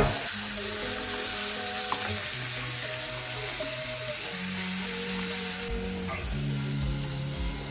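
Chopped tomatoes and onions sizzling in hot oil in a pot, stirred with a metal spoon, over soft background music with held notes.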